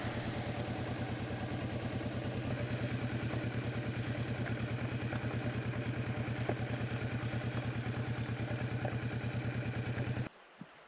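Motorcycle engine idling with a steady, even pulse, then cutting off abruptly about ten seconds in.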